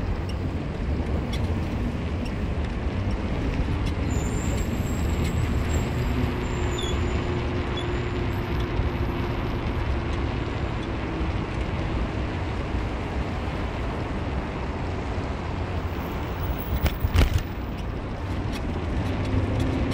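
A car driving, with steady road and engine noise and a low rumble. A single sharp knock is heard about three-quarters of the way through.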